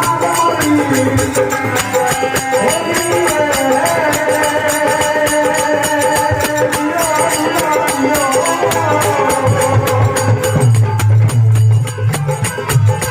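Bhajan folk music played on dholak with small jingling hand percussion. A wavering melody line runs over it for most of the stretch, and the deep dholak strokes come to the fore near the end.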